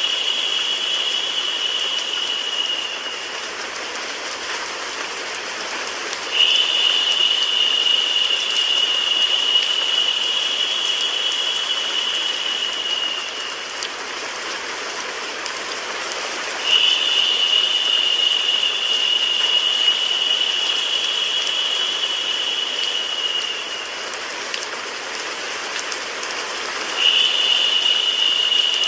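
Steady rain and white-noise hiss, with a high steady tone that comes in for about seven seconds at a time and drops out for about three, four times over.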